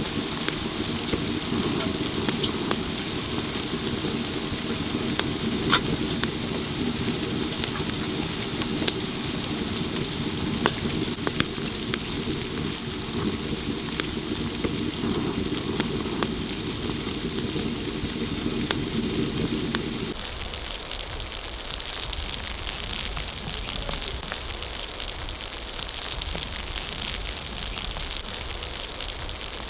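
Heavy falling snow pattering steadily like rain, with scattered sharp ticks. A lower, steadier layer of sound drops away about two-thirds of the way through.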